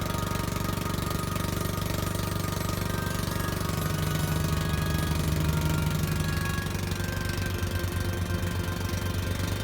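Pump boat's engine running steadily with a fast, even knocking beat, getting a little louder about four seconds in.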